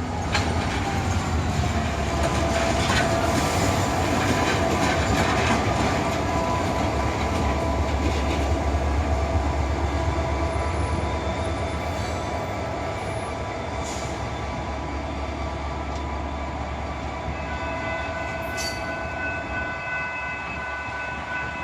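EMD GP40-2 diesel locomotive's 16-cylinder two-stroke engine rumbling as it shoves freight cars past, with wheels clicking over rail joints. The rumble is loudest partway through and then slowly fades. A steady high tone runs throughout, and more high tones join after about 17 seconds.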